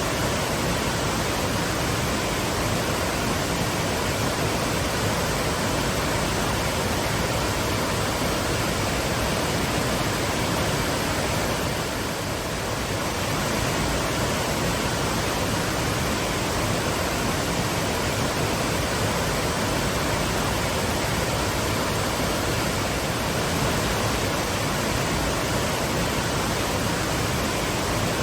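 Waterfall: a steady, even rush of falling water, dipping slightly about twelve seconds in.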